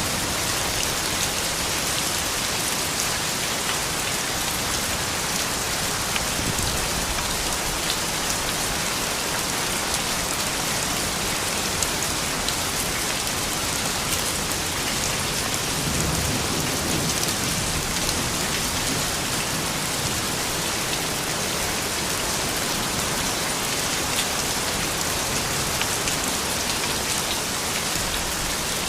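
Steady rain falling: a dense, even hiss of drops with many tiny ticks of single drops hitting.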